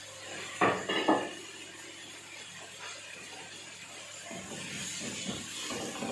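Kitchen utensils and dishes being handled: two sharp clinks about a second in, then scraping and rubbing against a plate or board near the end.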